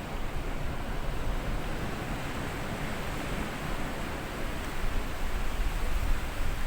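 Small sea waves washing up a sandy beach and drawing back: a steady hiss of surf with a low rumble underneath.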